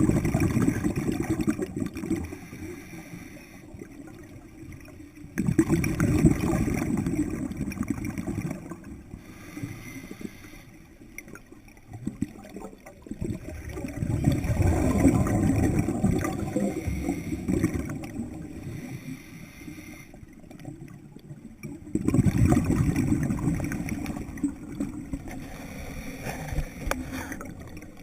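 Scuba diver's exhaled bubbles heard underwater, a low burbling rumble that swells for a few seconds with each breath out, four times in slow rhythm with quieter gaps between.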